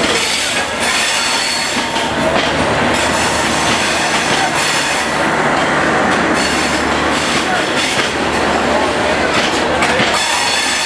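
A passenger train running past close by: a loud, steady rumble of the cars with a low hum and repeated knocks of the wheels.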